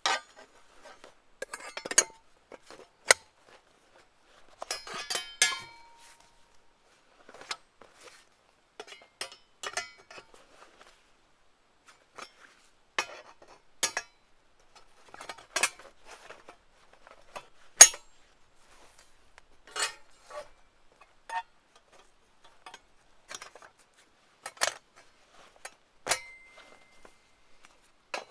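Irregular clinks and knocks of cookware and utensils being handled, some with a brief metallic ring.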